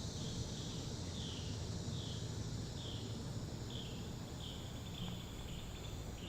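Outdoor nature ambience: a short high chirp repeating about once a second, over a steady low rumble.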